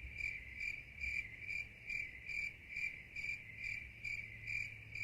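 Chirping-crickets sound effect: a high, even chirp repeating about two and a half times a second over a faint low hum.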